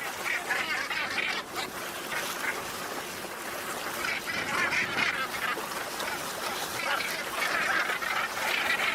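A dense chorus of many waterfowl calling at once, like a large flock, with overlapping calls that never let up.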